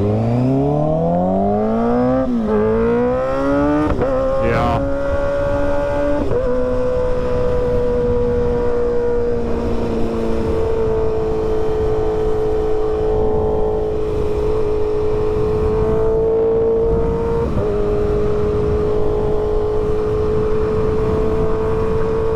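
A vehicle engine accelerating through the gears, its pitch rising and dropping back twice at the upshifts, then holding a steady cruise with constant road and wind noise.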